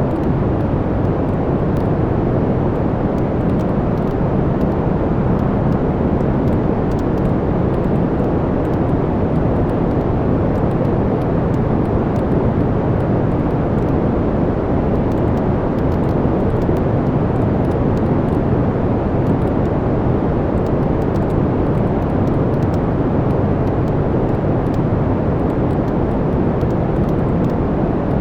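Wood fire burning in a fireplace: a steady low rumble of the flames, with many small, faint crackles and pops from the burning logs scattered throughout.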